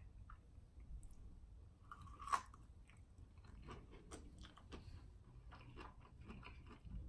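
Close-up crunchy chewing of deep-fried, battered cauliflower coated in Rice Krispie cereal: one loud crunch of a bite a little over two seconds in, then many small crisp crackles as it is chewed.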